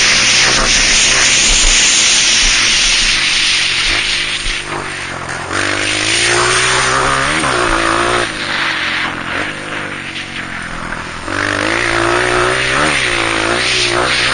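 Honda CRF230 single-cylinder four-stroke dirt bike engine under hard riding, revving up and dropping back repeatedly through the gears. It eases off about four seconds in and again from about eight to eleven seconds, then opens up again.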